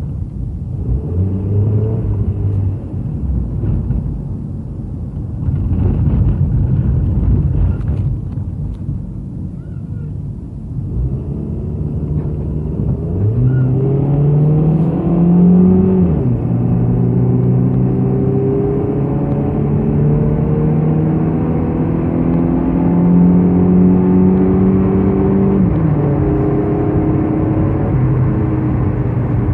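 Car engine and road rumble while driving: rough and rumbling at first, then the engine note climbs as the car accelerates about halfway through, drops back suddenly, holds a steady drone, and falls again near the end.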